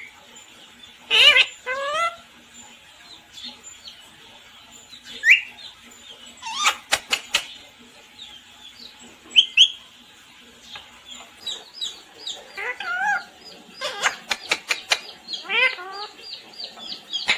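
Pet parrot calling on and off in short whistled squawks and chirps that sweep up and down in pitch, with a quick run of small falling chirps in the second half and a few sharp clicks.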